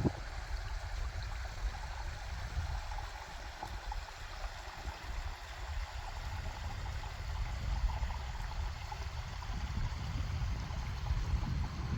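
Water running and gurgling at a beaver dam, with an uneven low rumble underneath.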